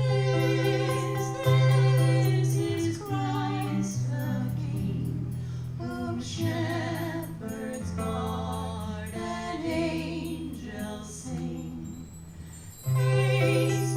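A small live band playing a song, with voices singing, steady low notes underneath and light percussion ticking in time. The band swells suddenly louder near the end.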